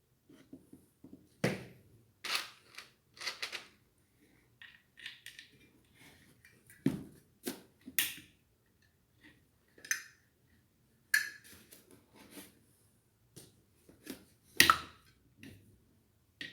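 Scattered knocks, clicks and rustling of parts being handled, a dozen or so separate short sounds with quiet between them, the loudest a sharp knock near the end.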